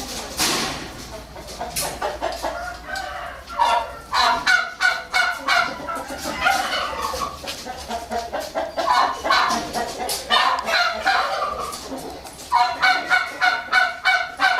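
Farmyard poultry calling: many short calls repeating and overlapping, in dense runs about four seconds in, about ten seconds in and near the end.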